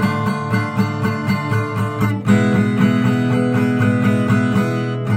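Acoustic guitar strummed in a steady rhythm, with a chord change a little over two seconds in.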